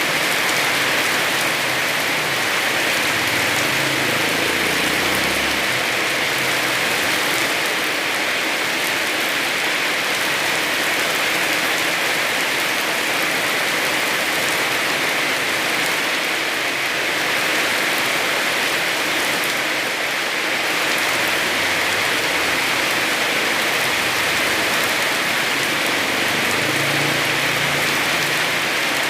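Heavy rain falling steadily on a small house.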